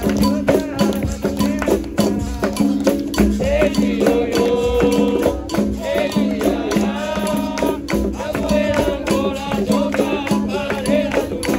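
Live capoeira roda music: the steady twang of berimbaus with the rattle of caxixi shakers and hand-drum strokes in a dense, even rhythm. Voices sing over it through the middle.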